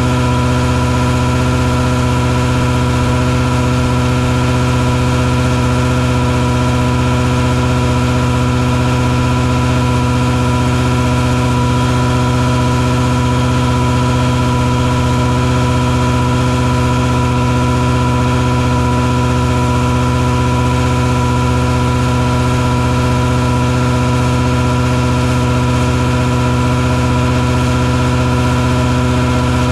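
Engine noise from a mosquito-fogging truck running at a constant speed: a steady drone with a constant pitched hum on top and no change in pitch.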